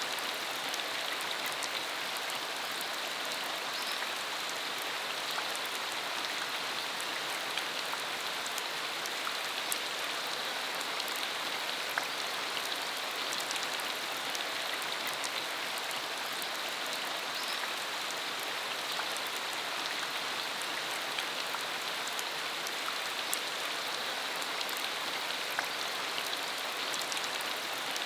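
Steady rain falling on a dirt country road: an even hiss with scattered sharp drop ticks.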